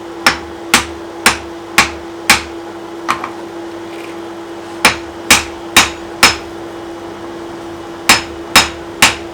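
Hand hammer striking a hot mild-steel axe blank on the anvil to bend it, in three runs of blows about two a second: five, then four after a light tap, then three. A steady hum runs underneath.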